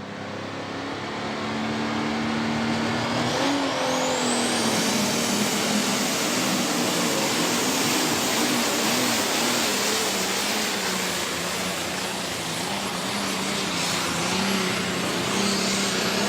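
Diesel super stock pulling tractor's engine running at full power, building over the first two seconds. A high turbocharger whistle rises sharply about three to five seconds in and then holds high and steady while the engine note wavers.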